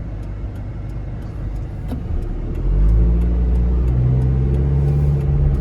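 1997 Mazda Bongo Friendee's 2.5-litre turbo diesel heard from inside the cabin while driving. About two and a half seconds in it pulls harder as the van accelerates, getting louder and rising in pitch, then holding steady.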